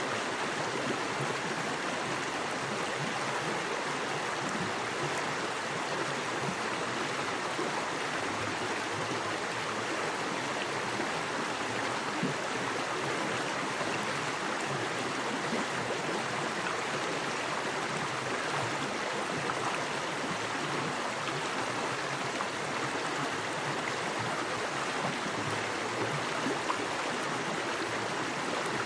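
Small creek with fast water running over rocks: a steady, even rushing and burbling that does not change.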